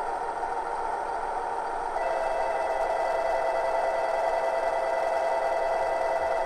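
DCC sound decoder in an HO-scale KiHa 110 diesel railcar model playing its diesel running sound through the model's small speaker. About two seconds in, a steady electronic tone joins and holds for about four seconds.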